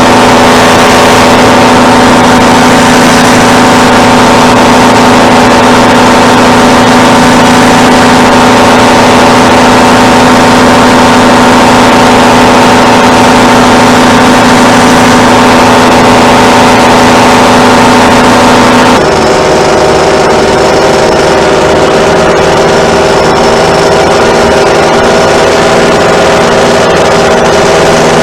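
Paramotor's two-stroke engine and propeller running steadily in flight. About two-thirds of the way through, the tone changes suddenly to a different pitch pattern with less hiss.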